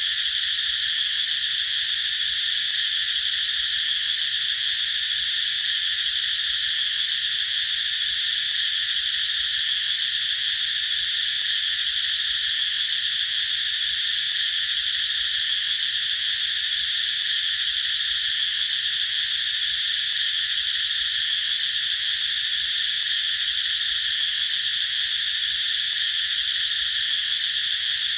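A chorus of cicadas singing, a steady, unbroken high-pitched buzz.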